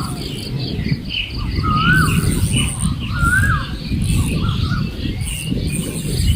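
Birds calling: three rising-and-falling whistled calls about a second or two apart, with shorter, higher chirps between them, over a low outdoor rumble.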